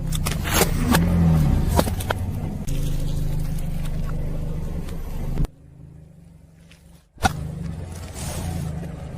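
Car engine running low and steady while a tyre rolls over and crushes objects, with several sharp cracks and pops in the first few seconds. The sound cuts off abruptly about halfway through and again a couple of seconds later, as short clips are joined.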